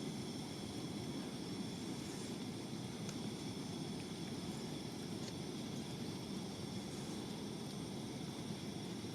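Steady low rumble of wind with a few faint, scattered crackles of a wood campfire.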